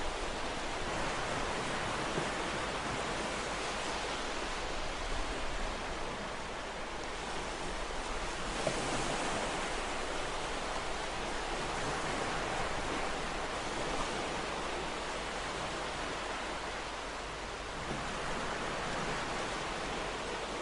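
Ocean waves washing on a shore in a steady wash of surf, swelling and easing slowly, with a fuller surge a little under halfway through.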